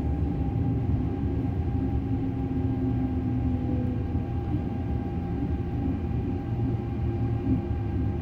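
Hong Kong MTR Airport Express train heard from inside the passenger cabin while running: a steady low rumble from the wheels and running gear, with a faint steady whine above it.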